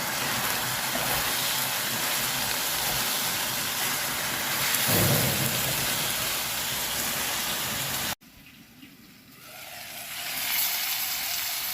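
Mutton with onions and spice powders frying in oil in a pan, a steady sizzle. The sound cuts off abruptly about eight seconds in and builds back up near the end.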